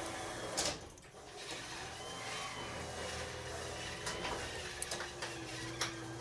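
Garage door opener running as the door closes, a steady mechanical hum with a few clicks, cutting off suddenly about six seconds in as the motor stops.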